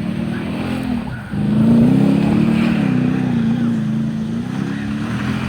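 A motor vehicle engine running, its pitch wavering up and down; it dips briefly about a second in, then comes back louder.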